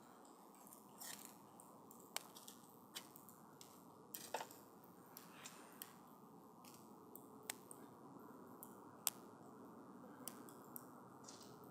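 Wood campfire crackling faintly: irregular sharp pops and snaps over a low steady rush of the burning wood, the sharpest pop about nine seconds in.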